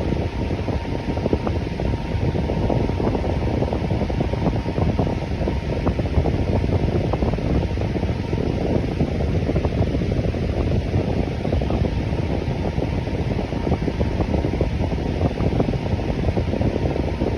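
Electric fan running steadily, a continuous rush of air with a faint steady hum.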